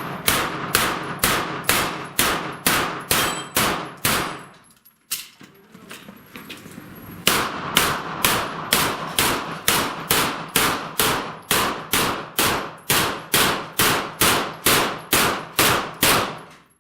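Rapid pistol-calibre gunshots at steel plates and poppers, about three shots a second, with the steel ringing on hits. About four seconds in, the shooting stops for roughly three seconds while the shooter moves to the second position, then a second, longer fast string follows.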